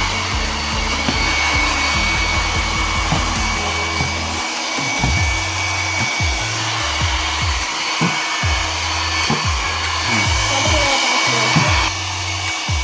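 Handheld hair dryer running steadily, blow-drying a wet dog's coat after a bath, with background music and a low repeating bass beat underneath.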